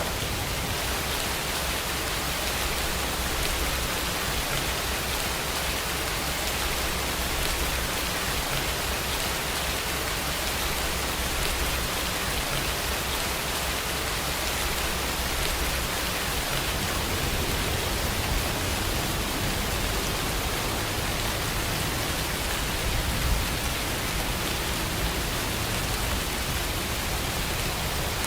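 Steady heavy rain, an even hiss of falling drops, with a low rumble underneath and one brief louder tap about 23 seconds in.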